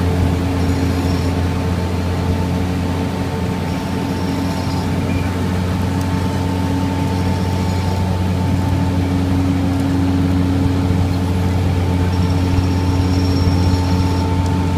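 Jet-Tetlaw 1-metre road planer's diesel engine running steadily at a constant speed, with a faint high whine that comes and goes.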